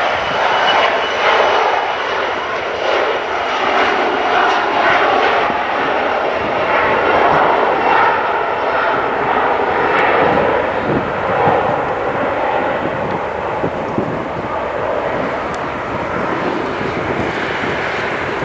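Airliner engines at an airport: a loud, steady roar of aircraft engine noise that eases slightly over the second half.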